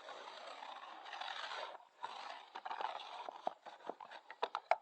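Ice scraper scraping frozen rain off a vehicle window: two long scraping strokes, then a run of short, sharp scrapes and knocks toward the end.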